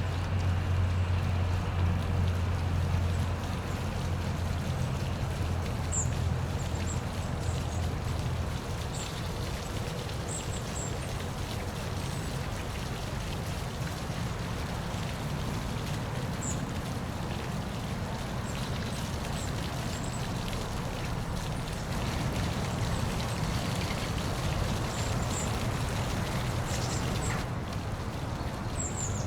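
Park waterfall splashing steadily. A low hum runs under it for the first eight seconds or so and then stops, and short high chirps come now and then.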